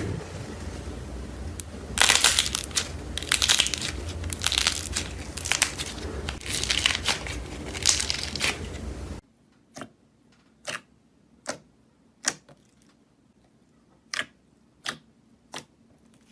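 Crisp, crunchy material being crushed and crinkled by hand in loud, crackly waves over a low hum. About nine seconds in it cuts abruptly to a quiet room and a series of sharp scissor snips, roughly one every 0.7 seconds.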